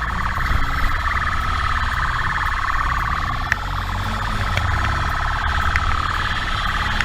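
Police motorcycle siren sounding continuously, its tone wavering slightly, over a steady low rumble of engine and wind as heard from a helmet-mounted camera.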